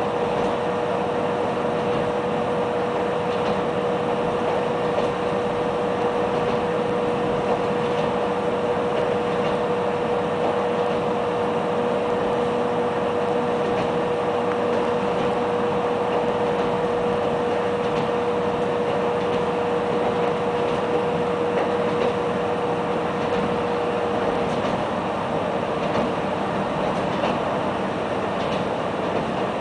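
Interior running noise of the 630M diesel railbus moving at speed: a steady rumble of wheels on rail and the drivetrain, with a steady whine that fades out near the end.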